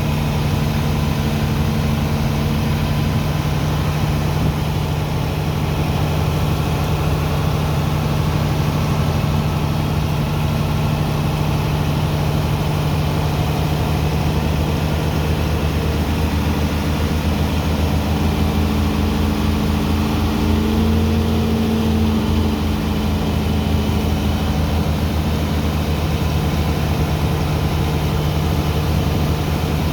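Heavy engine of a sand-unloading dredger pump machine running steadily at a constant speed. In the middle, a second, lower engine note joins and its pitch wavers up and down for several seconds.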